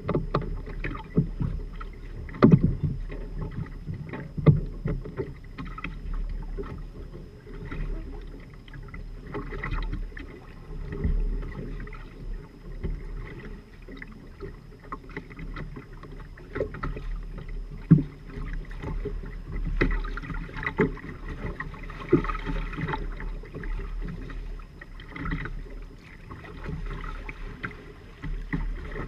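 Water washing and slapping irregularly against the hulls of a Firefly 26 trimaran under sail, with a steady low rumble of wind on the microphone.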